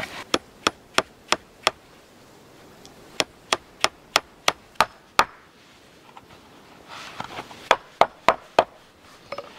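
A hand tool striking wood in quick, evenly spaced blows, about three a second, in three runs of five, seven and four strikes with short pauses between.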